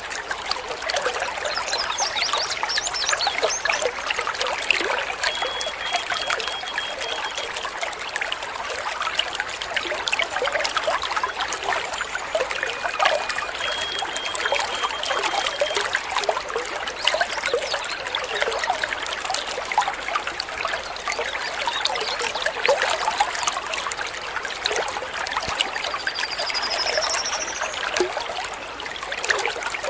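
Steadily trickling, babbling water with a few bird calls over it: short high chirps early on, two runs of thin repeated notes around the middle, and a quick rising trill near the end.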